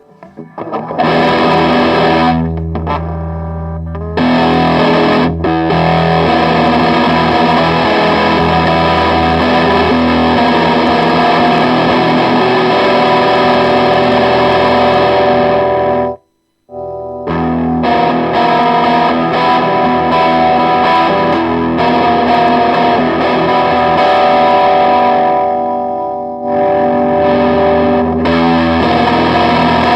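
Electric guitar played through a distortion pedal set for a light touch of distortion, sounding chords and notes continuously, with a short break a little past halfway.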